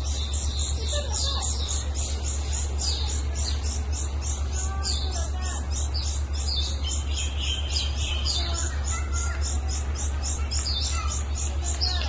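Small birds chirping and twittering in short calls, over a steady low hum and a fast, even, high-pitched pulsing.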